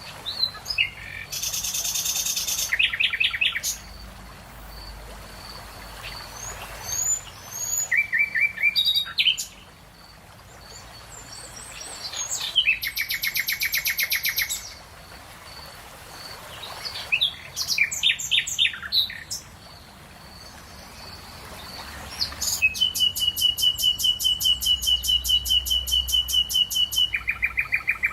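Songbirds singing in turn: short chirped phrases and quick series of high notes, then a long, fast trill of repeated notes about two-thirds of the way through, over a faint steady outdoor hiss.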